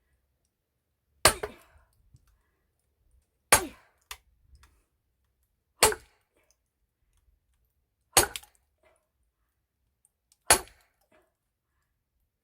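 Axe chopping firewood: five sharp strikes a little over two seconds apart, each with a short ringing tail, some followed by a lighter knock.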